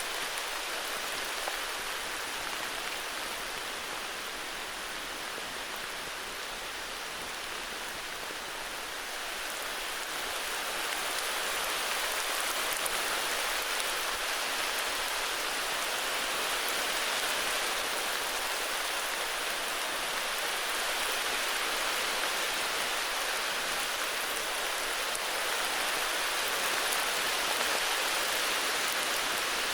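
Heavy rain falling steadily, a dense even hiss of drops that grows slightly louder about ten seconds in.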